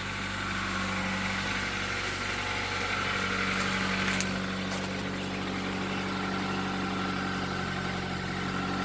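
Car engine idling steadily, with a few brief clicks about four seconds in.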